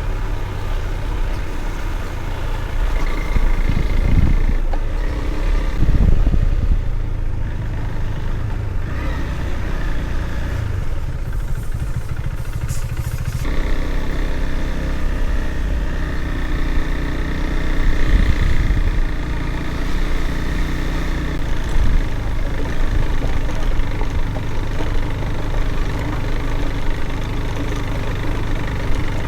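Husqvarna Svartpilen 401 single-cylinder engine running while riding, with a steady low rumble of wind on the microphone.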